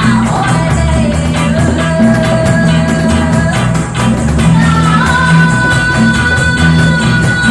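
Live reggae band playing a song: a steady bass-and-drum groove under long, held sung notes.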